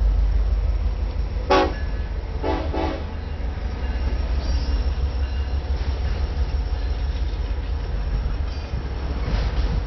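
Freight train passing with a steady low rumble, with a short horn toot about a second and a half in and two quick toots around three seconds.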